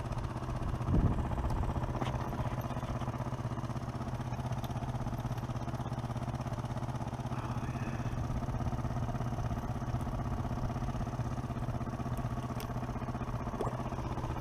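Small outboard motor idling steadily, with a single knock about a second in.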